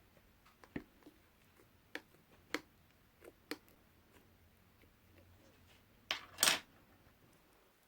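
Two-layer slime being handled: about six short, sharp click-like pops in the first few seconds, then a louder squish lasting about half a second, about six seconds in.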